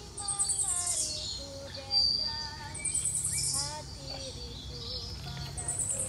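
Birds singing and calling: many short whistled notes that step and glide in pitch, and high, fast trills that come three times.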